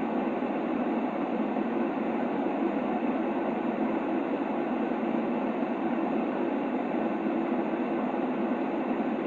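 Steady sleep-aid white noise for a baby: an even, unchanging rush, fuller in the low-middle than in the treble, with no breaks or changes.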